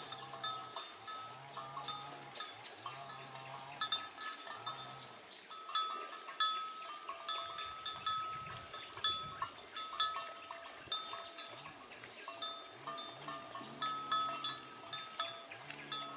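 Livestock bells clinking and ringing over and over, as from animals moving and grazing, with a steady high tone throughout.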